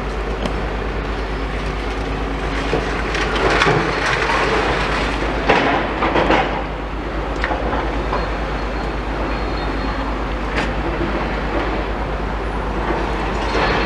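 Demolition excavators' diesel engines running steadily, with irregular crunching and clanking as concrete and metal debris is broken and scooped. The loudest crunches come about 4 and 6 seconds in.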